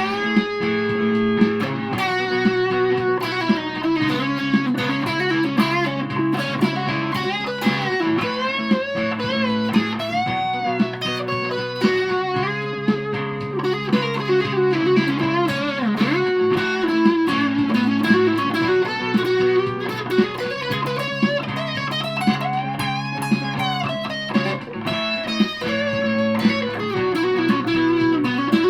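Aria Pro II Thor Sound electric guitar playing a melodic lead line with string bends and slides over sustained low notes.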